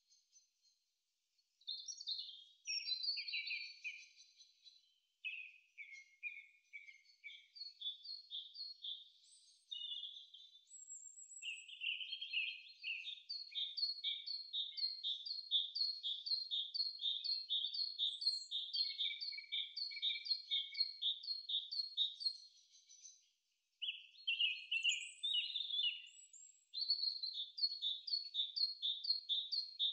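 Birdsong: a small songbird singing long runs of repeated high chirps, about three a second, with short breaks between phrases.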